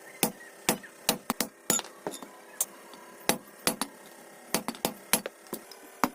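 Hand hammer striking metal in a run of irregular blows, about three a second, each with a short metallic ring, as a blacksmith forges a noodle spoon.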